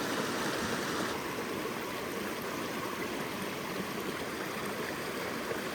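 A stream flowing steadily: an even rushing of running water with no breaks.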